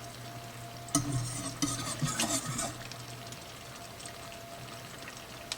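A spoon stirring and scraping in a saucepan of melting butter, a clattering spell of a second or two starting about a second in, over a steady low hum.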